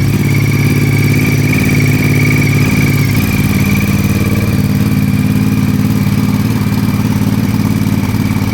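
Ducati DesertX's 937 cc V-twin idling steadily seconds after a cold start, with a steady high whine above the engine note. The engine note shifts slightly about three seconds in.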